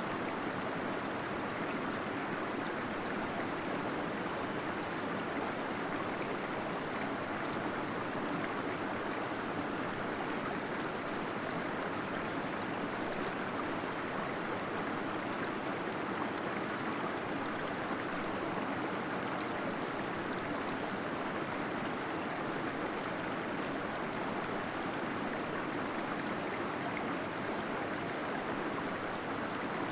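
Small waterfall inside a cave, water falling and gurgling in a steady, unchanging rush.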